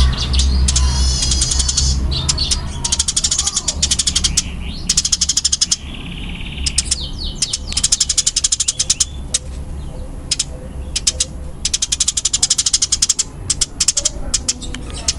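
Eurasian tree sparrows giving very fast, dense runs of chirps in repeated bursts with short breaks: the agitated chatter of sparrows fighting. A steady low hum lies underneath.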